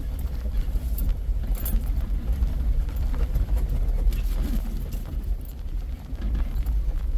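Vehicle driving slowly over a rough, rocky dirt trail: a steady low rumble with scattered rattles and knocks.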